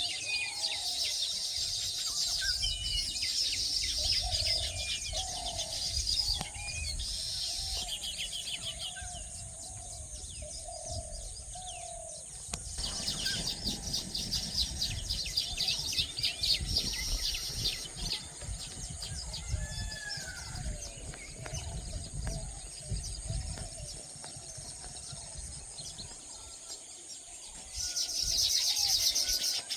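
Many small birds chirping rapidly, over a steady high whine. A lower call repeats every second or so through the first half, and a low rumble comes in around the middle.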